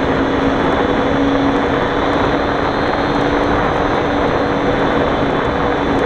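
Turbo Timber's engine running steadily with a constant pitched drone, under a heavy rush of air and wind noise over the camera.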